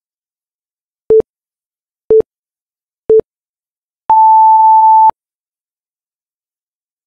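Workout interval timer's countdown beeps: three short low beeps a second apart, then one long, higher beep lasting about a second as the countdown reaches zero, marking the end of the interval.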